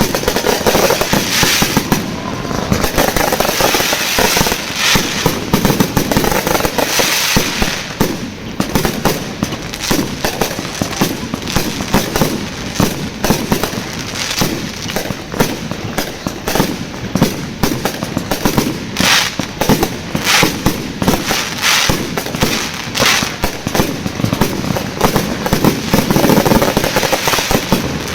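Fireworks display going off: a rapid, continuous run of bangs and crackles from aerial shells, many overlapping each other.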